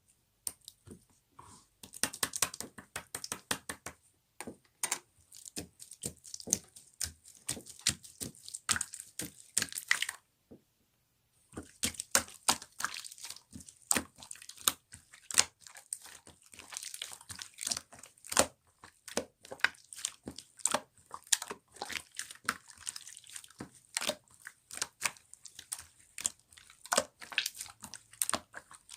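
Slime being squeezed and worked by hand, giving dense irregular crackling and popping clicks, with a pause of about a second near the middle.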